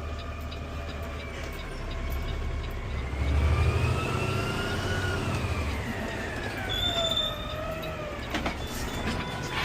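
CNG Peterbilt 520 garbage truck running, its low engine rumble swelling a few seconds in while a whine rises in pitch and then falls away.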